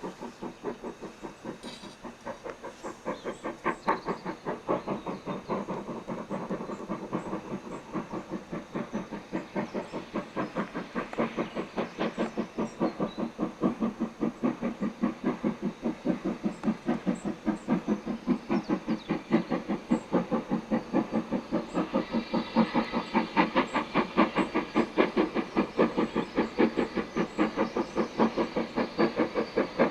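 Two steam locomotives double-heading a train up a 1 in 49 gradient, their exhaust beats coming fast and even at about four a second, working hard on the climb. The beats grow steadily louder as the engines approach.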